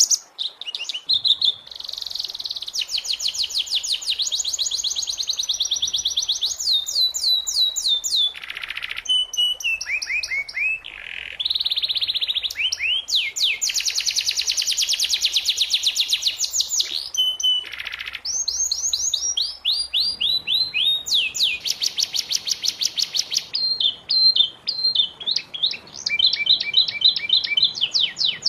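Domestic canary singing a long, continuous song of fast high trills. It switches between rapid repeated notes and runs of falling whistled glides, with only brief pauses between phrases.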